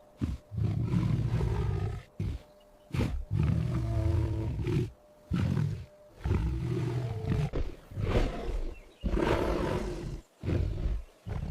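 A big cat roaring again and again: about eight long, rough, low calls with short breaks between them.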